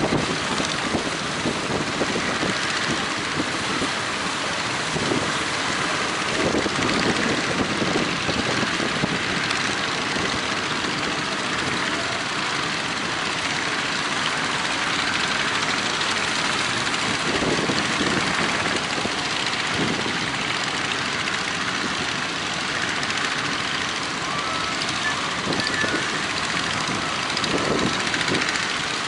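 Motors of fishing boats running steadily under a dense rush of noise, with irregular low gusts of strong wind on the microphone.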